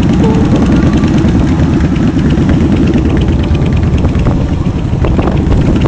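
Motorcycle engines running with a loud, steady low rumble.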